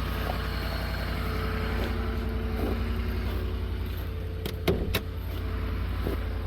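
2009 Dodge Ram 1500's 5.7 Hemi V8 idling steadily just after a cold start in sub-zero cold, with no Hemi tick. A few sharp clicks about four and a half seconds in.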